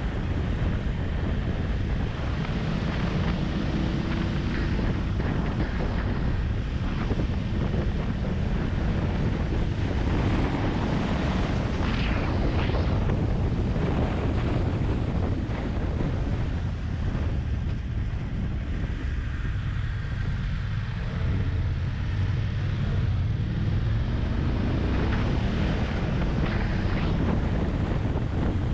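Wind rushing over the microphone of a moving motorcycle, with the engine running underneath at a steady level.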